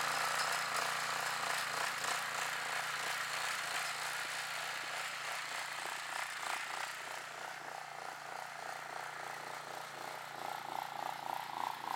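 Go-kart mower's small engine running under way in snow, growing steadily fainter.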